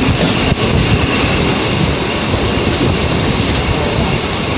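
A Western Railway Mumbai suburban local train running past close by, its coaches giving a steady loud rumble of wheels on rails, with a faint click about half a second in.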